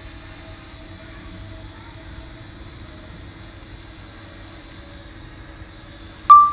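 Steady wind rumble on the microphone with a faint hum, broken about six seconds in by a short, loud click and beep.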